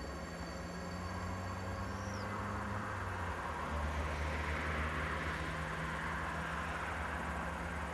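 Class 185 electric locomotive hauling a freight train of tank wagons as it approaches. A steady low hum runs under wheel-on-rail running noise that grows louder about three seconds in, and a thin high tone fades out about two seconds in.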